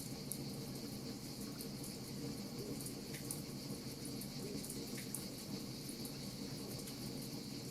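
Wood fire crackling: a steady hiss with frequent small, irregular pops and snaps.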